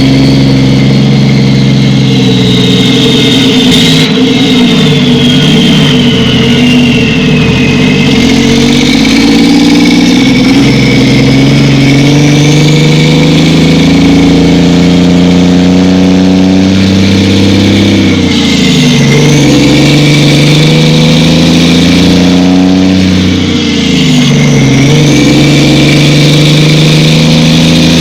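Truck engine running loudly under load. Its pitch drops sharply and climbs back twice in the second half, as the transmission shifts gears.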